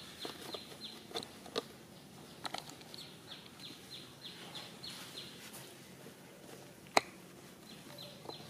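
Faint bird chirping: short, high, falling chirps repeated about three to four times a second. A few light clicks, and one sharp click about seven seconds in.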